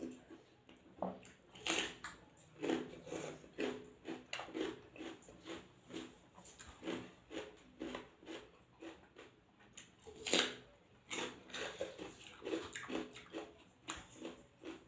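Close-up eating sounds: a person biting into and chewing raw cucumber, with crunches and wet mouth smacks coming in quick irregular succession. The loudest crunches come about two seconds in and about ten seconds in.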